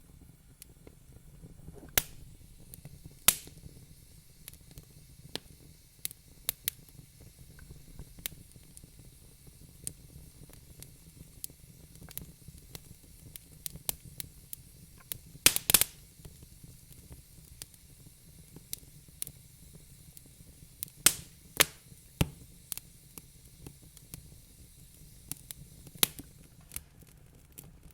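Wood fire crackling in a fireplace: irregular sharp pops and snaps over a steady low rumble, with a brief cluster of louder pops about halfway through.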